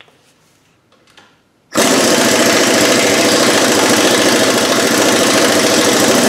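A power tool starts suddenly about two seconds in, runs loudly for about four and a half seconds, and begins to wind down near the end.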